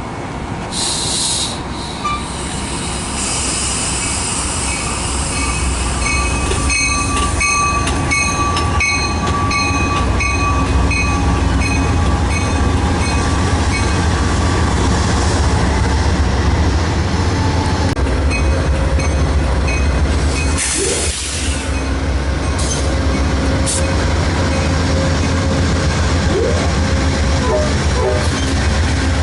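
A train rolling past on the tracks with a steady heavy rumble. A run of evenly repeated metallic clicks comes and goes, and brief high squeals come near the start and about two-thirds of the way through.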